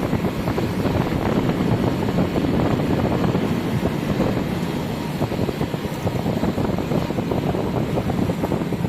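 Small motorbike engine running steadily while the bike is ridden, with wind buffeting the microphone.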